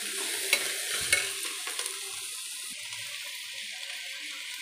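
Chopped onions and bitter gourd sizzling steadily as they fry in a pressure cooker, stirred with a steel spoon that clinks sharply against the pot twice in the first second or so.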